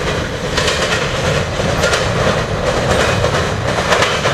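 CSX freight train cars rolling past, their wheels clacking over rail joints in irregular clusters over a steady rumble.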